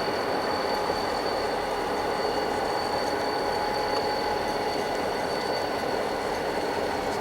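Freight train rolling by, its wheels running on the rails with a steady high-pitched wheel squeal over the rumble.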